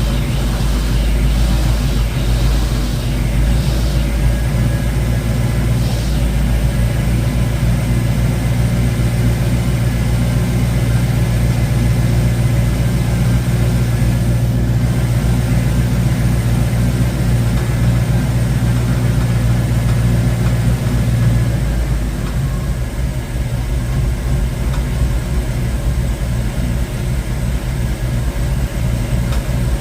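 1972 Ford Mustang Mach 1 V8, fitted with a Crane 2040 camshaft, idling steadily through a single 3-inch exhaust with a Black Widow Venom race muffler. About two-thirds of the way through, the idle settles to a lower, softer note.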